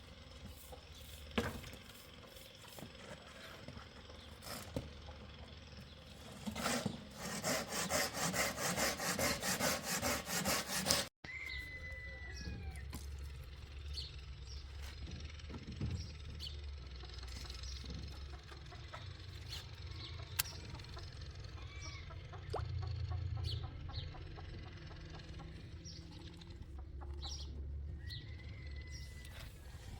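Rhythmic back-and-forth sawing of wood for about four seconds, stopping abruptly. After it come a steady low hum and a few short bird chirps.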